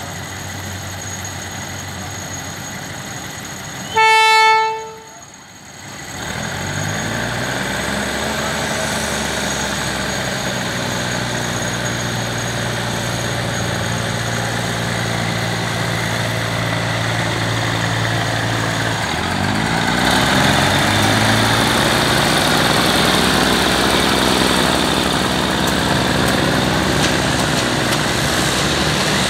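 State Railway of Thailand diesel railcar set idling, then giving one short horn blast about four seconds in. Its engines then rise in pitch as it pulls away from the platform, rising again about twenty seconds in as it gathers speed, with running noise building.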